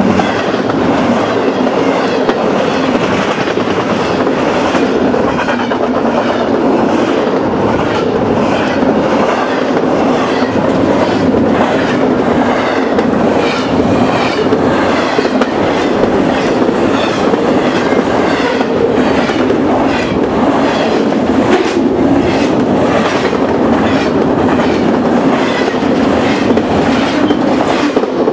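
Double-stack container freight train's well cars rolling past close by: a continuous rumble of steel wheels on rail with a steady, regular clickety-clack. The sound starts to fall away at the very end as the last car clears.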